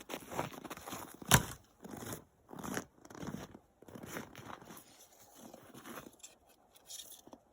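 Split firewood being handled: scattered scraping and crunching of wood, with one sharp wooden knock about a second and a half in.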